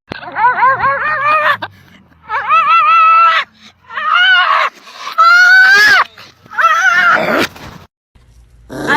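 A dog yelping in a quick run of short notes, then howling in four longer drawn-out notes.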